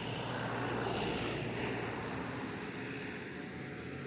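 A car's engine running as the car is driven close by. The sound swells about a second in, then eases off slowly.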